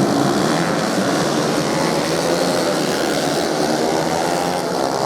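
A pack of 110 cc racing motorcycles running at high revs, several small engines buzzing together at a steady level.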